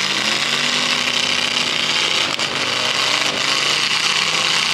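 Several demolition derby cars' engines revving hard at high revs, the pitch rising and falling as the cars shove against each other.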